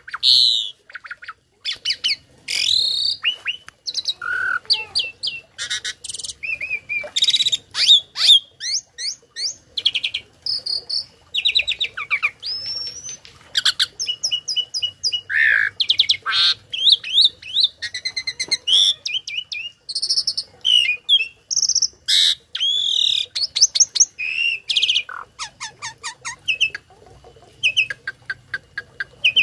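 Tame jalak starling singing a long, rapid, varied song of whistles, rising and falling notes, chirps and quick trills, delivered without a break. The song is full of mimicked phrases of other birds (isian).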